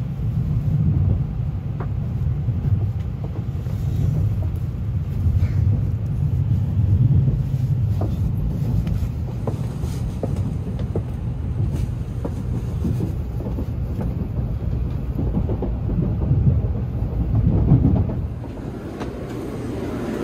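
Shinkansen bullet train running on the rails, heard from inside the passenger car: a steady low rumble with scattered clacks from the wheels. It gets quieter near the end as the train comes to a stop at the station.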